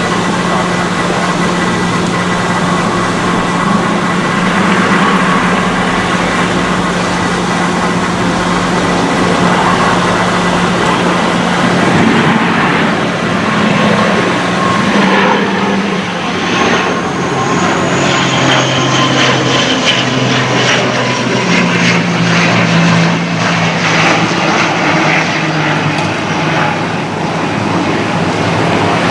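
ATR 72-600 twin-turboprop airliner running on the runway, its propellers making a steady low hum with a higher whine above it. The low tone drops lower for a few seconds past the middle, then rises back.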